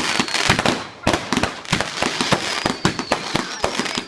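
Garden fireworks going off in rapid succession: a dense, irregular run of bangs and crackles, with a thin high whistle underneath.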